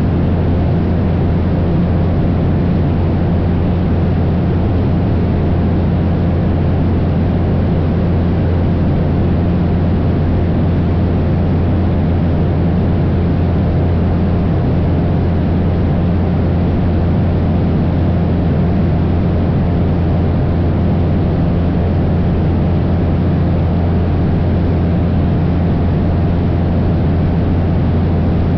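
Cessna 172's propeller engine running steadily in flight, a constant low drone with a steady hum that does not change.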